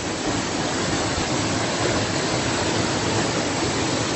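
Tall waterfall heard close to its base: a steady, loud rush of falling water and spray.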